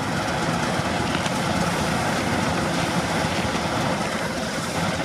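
Diesel locomotives, CN's GE Dash 9 units, running steadily while stopped: an even engine rumble with no horn or clanks.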